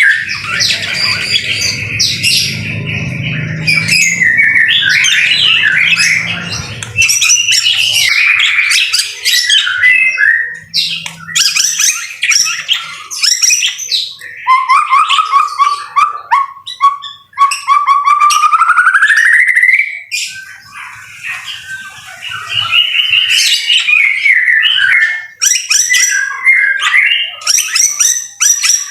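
White-rumped shama (murai batu) singing a loud, varied song of whistles, trills and chattering notes, with a long rising whistle about two-thirds of the way through.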